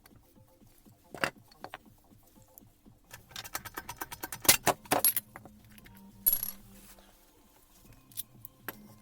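Metal parts and tools clinking and rattling as they are handled. A dense run of clatters comes in the middle, and a single sharp clink with a brief high ring follows about six seconds in.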